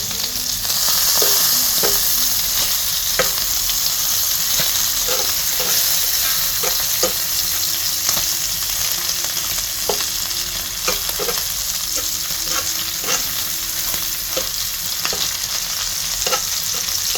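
Bacon frying in its rendered fat in a pan: a steady sizzle with frequent sharp pops of spattering grease.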